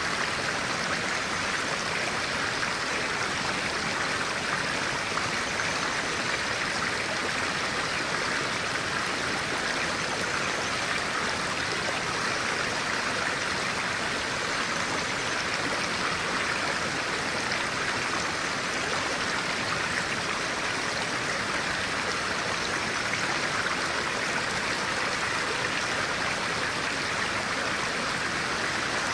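Stream of clear water flowing steadily, an even, unbroken wash of water noise.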